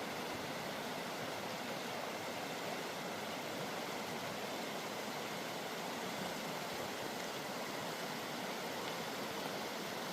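Steady rush of a fast mountain creek, an even hiss of flowing water with no change in level.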